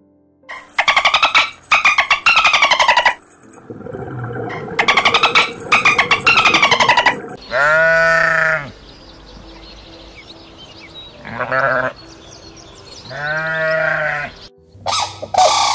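Two loud bursts of rapid, buzzing pulsed calls, then Barbary sheep bleating three times, the first bleat the longest.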